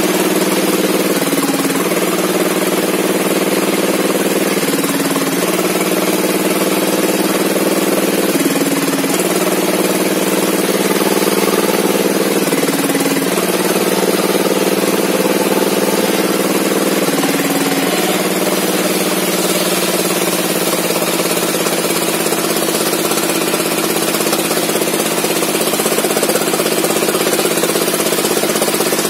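Engine of a log sawmill running loud and steady, its pitch dipping briefly and recovering about every four seconds, then holding one even pitch for the last third.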